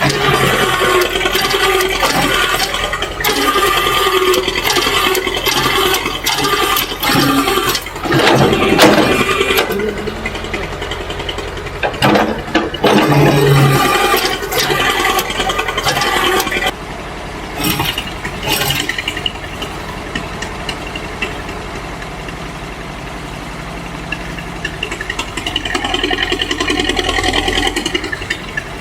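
Excavator engine running under varying load, with irregular clanks, knocks and rattles of the machine at work; it settles to a steadier, lower sound about two-thirds of the way in.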